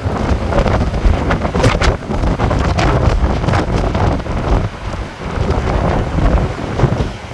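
Hurricane-force wind buffeting the microphone in gusts, a heavy low rumble with sharp hisses, over the noise of surf.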